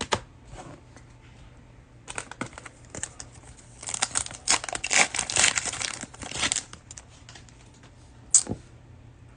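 Plastic cellophane wrapper of a trading-card pack crinkling as it is torn open and handled, with scattered clicks; the crinkling is thickest from about four to six and a half seconds in, and a single sharp click comes near the end.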